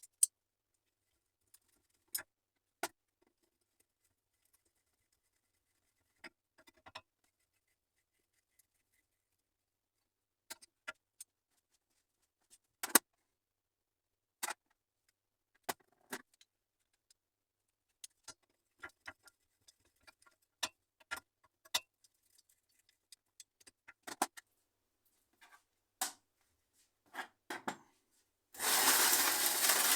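Scattered short metallic clinks and taps of tools and engine parts being handled during assembly of a K750 motorcycle engine, with silence between them. Near the end a loud, steady hiss starts.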